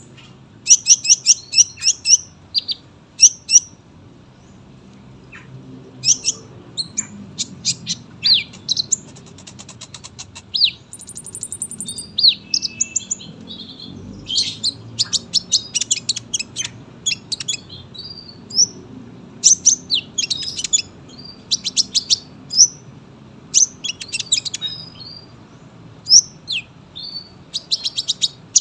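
Sunbird (kolibri ninja) singing in long bouts of rapid, sharp high chirps and trills, with a thin buzzy trill about eleven seconds in.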